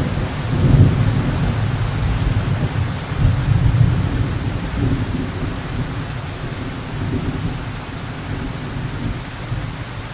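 Heavy rain pouring on a roof under a long, low rumble of thunder that swells about a second in and again around three to four seconds, then slowly dies away.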